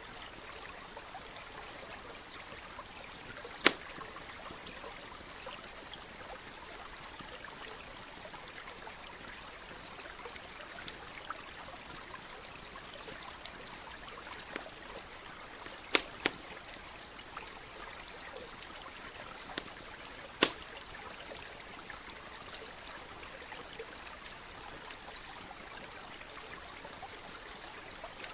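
Wood fire crackling, with scattered small ticks and a few loud sharp pops (about 4 s in, a pair near 16 s, and one near 20 s), over the steady rush of a nearby stream.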